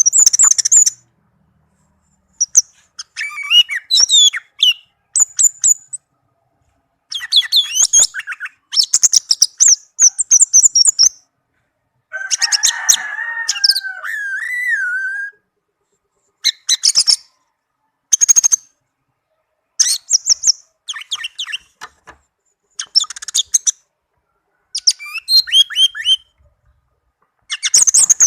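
Orange-headed thrush singing in a string of short, high, rapid phrases with brief pauses between them, and a harsher, lower stretch about halfway through.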